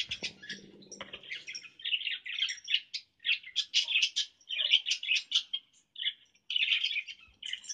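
Birds chirping: many quick, high chirps in dense chattering runs.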